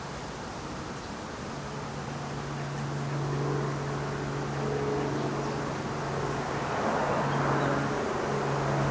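A motor's steady low hum, coming in about a second and a half in and getting steadily louder.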